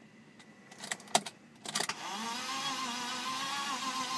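A few key clicks, then about two seconds in the BMW E36's starter begins cranking the engine steadily, with a slight waver in pitch, without the engine firing. This is a crank-but-no-start, which the owner wonders may be a failed fuel pump.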